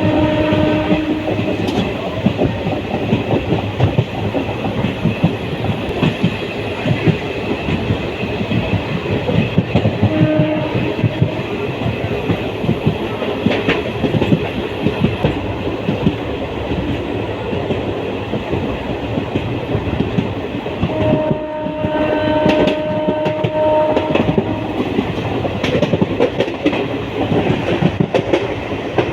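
Passenger train running with a continuous clickety-clack of wheels over the rail joints. A horn sounds briefly near the start, again about a third of the way through, and in a longer blast about three quarters through.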